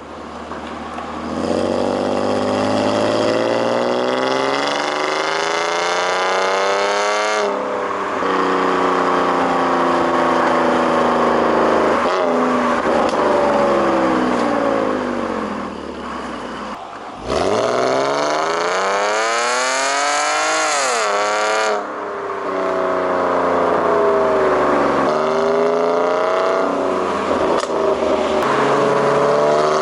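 BMW E46 exhaust note under acceleration. The engine pitch climbs steadily and drops sharply, as in gear changes. In the middle comes one steep, hard climb that cuts off suddenly, and after it come shorter rises and falls in revs.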